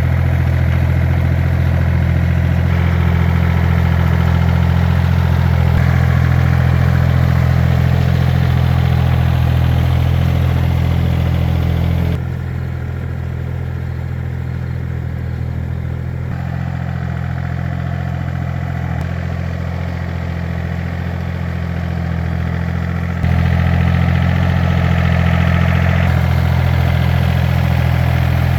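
Tractor engine running steadily at a constant speed. Its sound drops abruptly about twelve seconds in and comes back just as suddenly some eleven seconds later.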